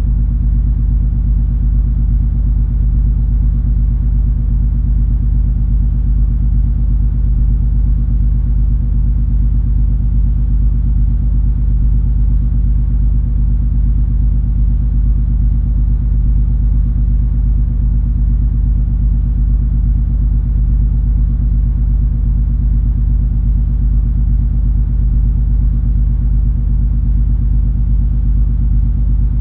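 Cruise ferry's engines and machinery heard aboard while under way: a steady deep rumble with a constant hum over it, unchanging in level.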